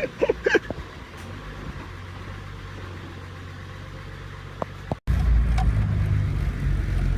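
Truck engine running with a steady low drone, heard from the cab. A short voice fragment comes at the very start, and about five seconds in the sound drops out for an instant and comes back louder.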